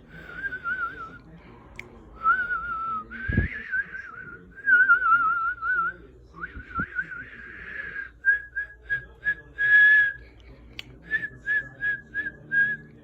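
A person whistling through the lips, breathy and unsteady. Wavering, warbling phrases around one pitch give way in the second half to a run of short repeated notes, about two a second. The whistler herself calls her whistling poor.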